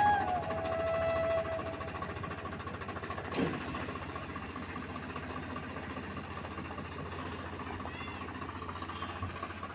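Diesel tractor engine idling steadily, under flute music that fades out in the first second or two. A single brief knock sounds about three and a half seconds in.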